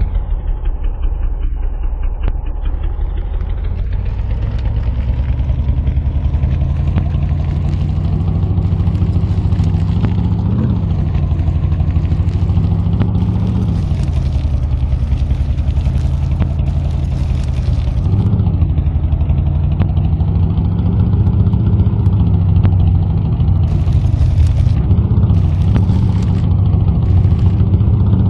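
Army truck engine running at low speed under load, pitch rising briefly three times as it is revved. Stretches of hiss come and go over it.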